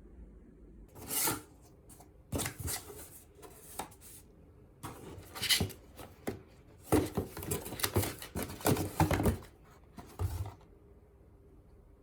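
Irregular bursts of rustling, scraping handling noise, thickest about seven to nine and a half seconds in, then stopping.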